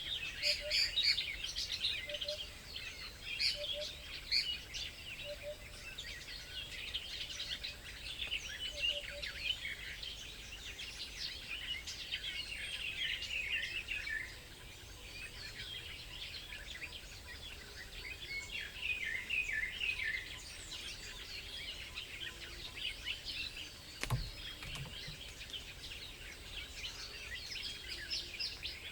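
Several birds chirping together, with many short high calls overlapping without a break. A single sharp knock comes near the end.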